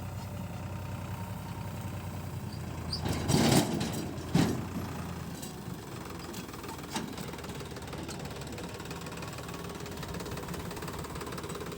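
Tractor engine running steadily with a low knocking hum, which fades about five and a half seconds in. Two louder noises cut in at about three and a half and four and a half seconds.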